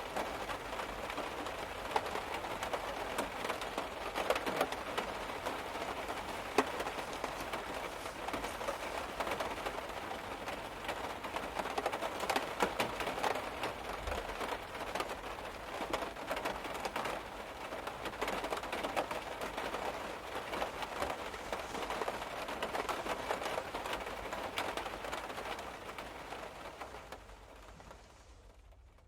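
Rain pattering on a car's body, heard from inside the car: a dense, steady spray of drops that fades away over the last couple of seconds.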